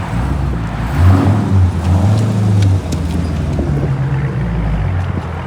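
2020 Dodge Charger Scat Pack's 6.4-litre HEMI V8 running through a freshly fitted straight-pipe exhaust, with no mufflers. It gives a loud, deep, steady drone that swells about a second in and settles back down near the three-second mark.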